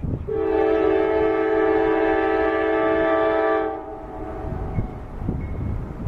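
A freight locomotive's air horn blowing one long, steady blast of about three and a half seconds, sounding a chord of several tones over the low rumble of the passing train.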